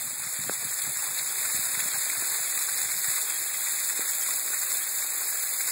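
Sleet and rain falling steadily: an even hiss with a few scattered sharp ticks.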